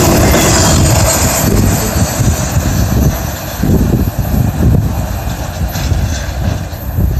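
Last intermodal cars of a freight train rolling past close by, wheels running on the rails. About a second and a half in the passing noise drops off as the tail end pulls away, leaving a fading, gusty low rumble.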